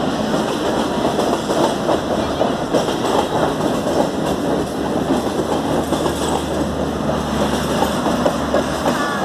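Passenger coaches of an express train rolling past at speed: a steady loud rumble of steel wheels on rail, with a rapid clatter as the wheels cross the rail joints.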